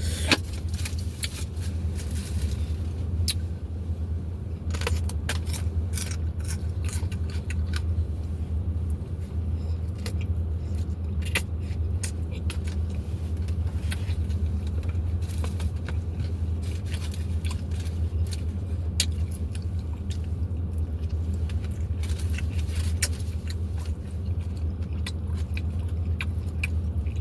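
A person eating a taco: irregular crunches, clicks and rustles of chewing and handling the food, over a steady low hum.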